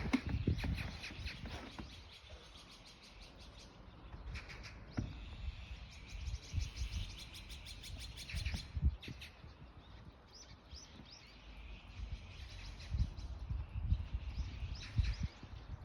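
Magpies chattering: several bursts of rapid rattling calls, the longest lasting about three seconds in the middle, with shorter bursts near the start and near the end.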